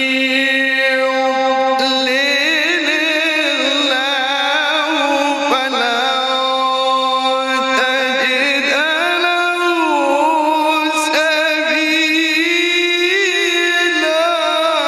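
Man reciting the Quran in the melodic tajwid style, one long phrase held on a single breath with quick ornamental trills. The pitch steps up about two seconds in and dips around ten seconds in.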